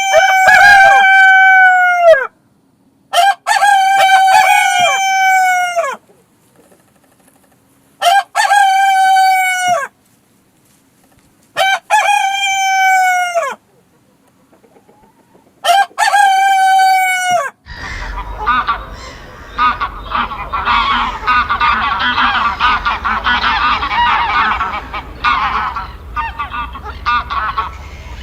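Rooster crowing five times, each crow two to three seconds long and dropping in pitch at the end, with short gaps between. After the fifth crow a flock of fowl breaks into a dense, continuous clamour of overlapping calls.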